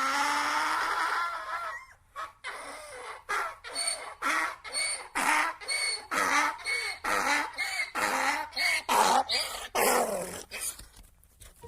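Donkey braying: a long call, then a run of short hee-haw notes, about two a second.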